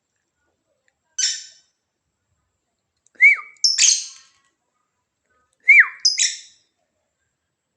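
Lovebird calling: a single harsh call about a second in, then twice a short arched whistle followed at once by a harsh squawk.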